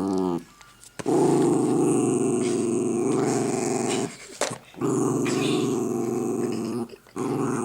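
Dog growling in long stretches, one of about three seconds and another of about two, with brief breaks between them: the warning growl of a dog annoyed at being disturbed while eating.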